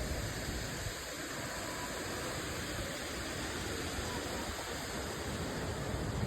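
Steady rush of flowing water, an even hiss and roar that holds level throughout.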